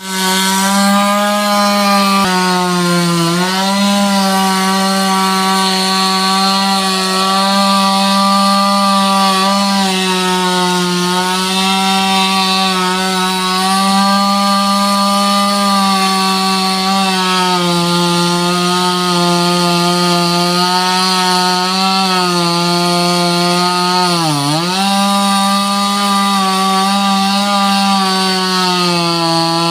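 Petrol chainsaw running at high revs while cutting into a tree. Its engine note holds steady with a few brief drops in pitch, the deepest about 24 seconds in.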